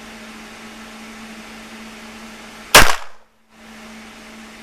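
A single pistol shot about three seconds in, very loud and sharp, after which the sound drops out completely for a moment. A steady low hum runs underneath.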